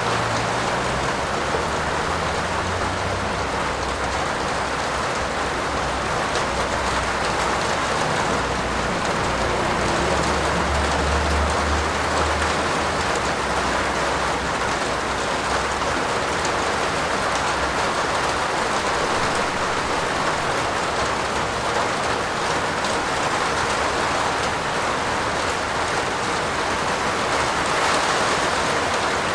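Steady rain falling on a roof, an even, unbroken patter that swells slightly near the end.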